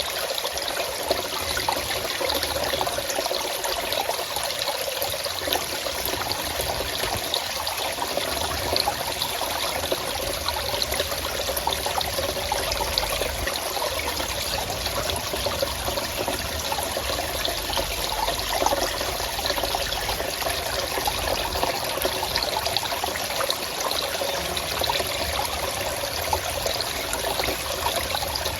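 Running water in a forest stream, flowing and trickling steadily.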